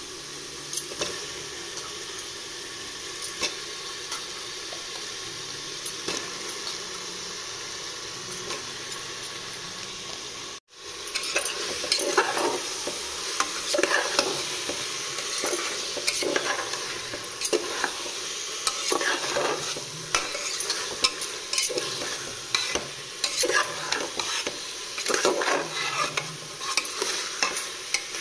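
Spiced onion-tomato masala sizzling steadily in a pressure cooker on the stove. After a brief cut about ten seconds in, chicken pieces are frying in it, louder, while a metal spoon stirs and scrapes against the pot with frequent clinks.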